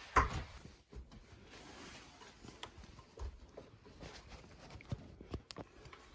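Someone climbing a loft ladder: a louder bump at the start, then scattered knocks and steps from hands and feet on the rungs.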